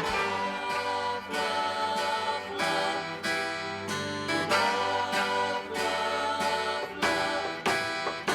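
Acoustic guitar music: a string of plucked notes in a gentle melody.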